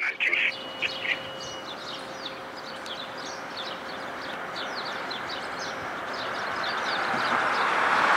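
Small songbirds chirping over and over above a steady rumble that swells toward the end, with a few short high beeps and a held tone in the first second or so.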